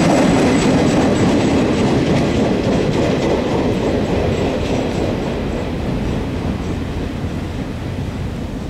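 Freight train cars rolling past, wheels clicking over the rail joints, the rumble slowly fading as the train moves off.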